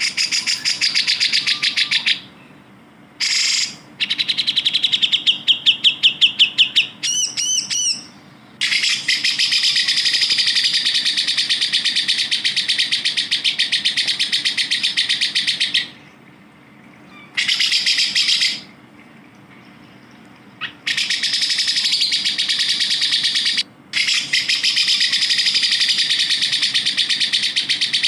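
Cucak jenggot (grey-cheeked bulbul) song played as a bird-training recording: long runs of fast, rapid-fire chattering notes lasting several seconds each, broken by short pauses, with a brief wavering whistled phrase about seven seconds in.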